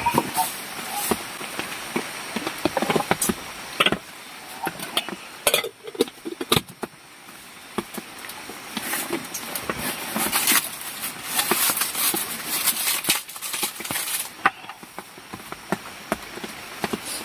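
Irregular rustling with many scattered clicks and knocks, the sound of objects being handled.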